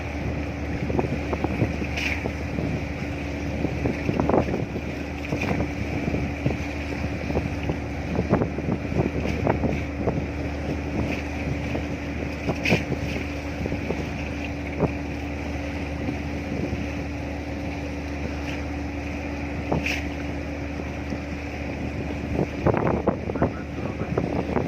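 A boat engine running steadily with a constant low hum, while wind buffets the microphone in irregular gusts that grow stronger near the end.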